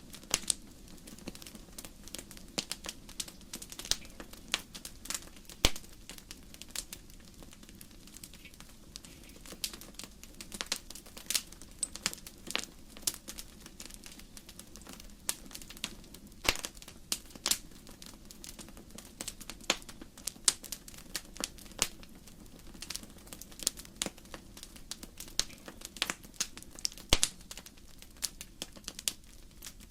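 Wood fire burning in a fireplace, crackling with many irregular sharp pops, a few of them much louder than the rest, over a faint steady low rumble.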